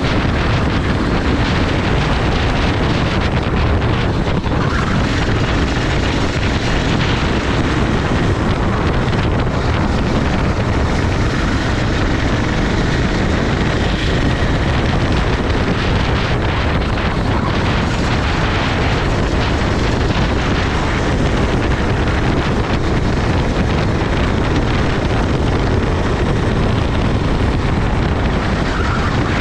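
Go-kart engine running under racing load, heavily masked by wind buffeting on the onboard microphone.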